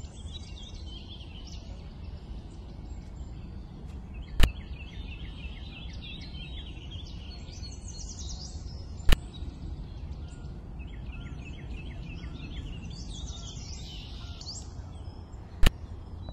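Birds chirping, with repeated quick trilling phrases, over a steady low rumble. Three sharp clicks stand out, several seconds apart.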